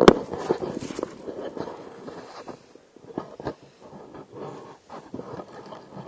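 A 1/10-scale radio-controlled short-course truck clattering along, with irregular knocks and crunches and a loud burst right at the start.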